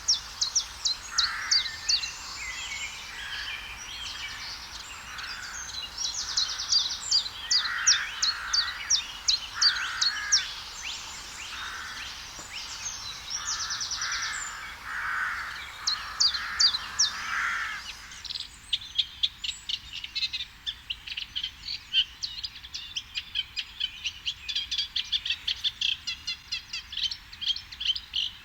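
Common chiffchaff singing its evenly repeated two-pitch 'chiff-chaff' notes, with other birds calling more softly underneath. About two-thirds of the way in the sound cuts to a different bird's faster, chattering song.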